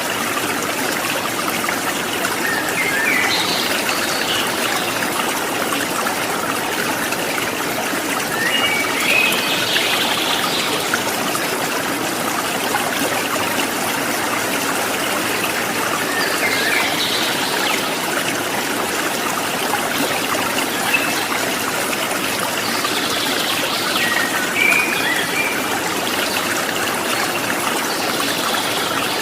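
Water trickling and splashing steadily, like a small stream over stones. Short spells of bird chirps come in five times, several seconds apart.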